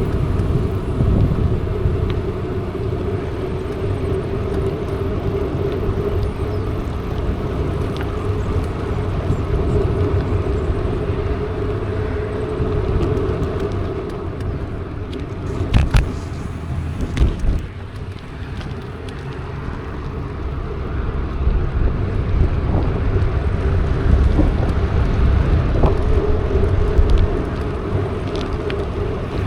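Mountain bike being ridden: low wind rumble on the microphone and steady tyre-and-drivetrain noise with a constant hum, broken by a couple of sharp knocks and rattles about halfway through.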